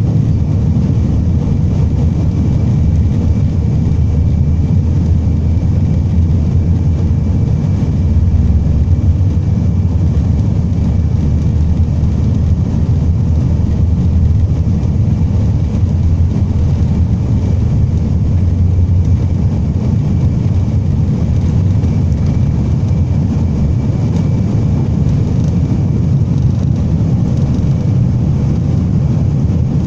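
Jet airliner heard from inside the cabin: a steady, loud low rumble of engines and airflow, with a faint steady whine above it.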